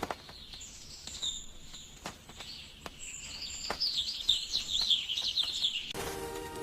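Small birds chirping, scattered at first and then a quick run of short chirps from about three seconds in, with a few faint clicks.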